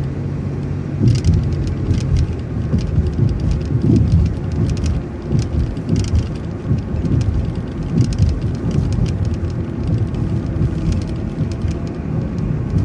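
City transit bus driving, heard from inside: a steady low rumble of engine and road noise with frequent small rattles and clicks from the bus.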